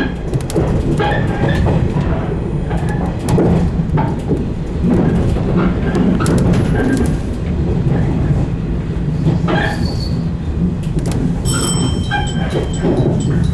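A 115 series electric train running on the line: a steady rumble from the wheels on the rails, broken by scattered clicks. About eleven seconds in, a high, steady squeal joins the rumble and carries on to the end.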